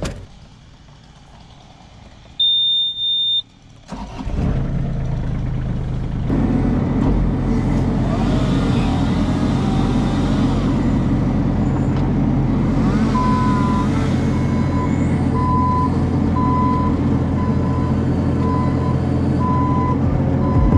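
Bobcat E26 compact excavator being started: a short warning beep, then the diesel engine catches and runs, rising to a higher speed about two seconds later. From about the middle on, a beeping alarm repeats steadily over the running engine.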